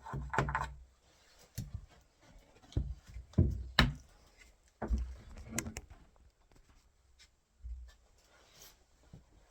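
Irregular knocks and short scrapes of a tool against a wooden door, working the edge of a freshly drilled handle spindle hole to round it off. The loudest knocks fall around three to four seconds in.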